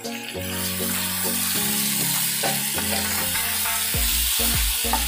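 Chicken pieces sizzling in oil in a frying pan while a spatula stirs them. The hiss swells about half a second in and then holds steady.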